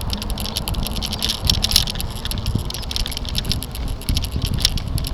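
Camera mounted on a moving bicycle, rattling and clicking fast and irregularly from road vibration over bumpy pavement, over a steady low rumble of tyres and wind.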